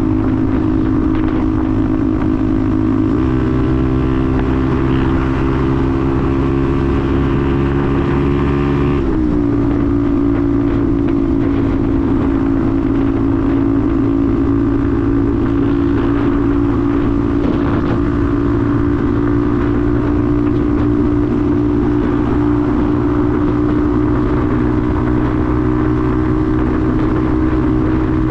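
Benelli TNT 125's single-cylinder 125cc engine running at steady revs while riding; the engine speed drops sharply about nine seconds in, then holds at the lower pitch.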